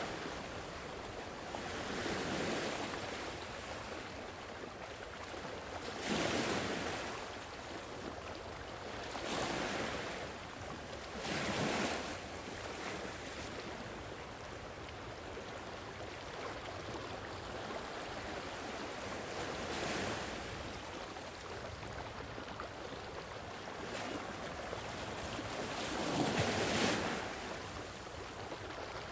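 Sea waves washing onto a shore: a steady rush of surf with about seven waves swelling and breaking a few seconds apart, the loudest about six seconds in and near the end.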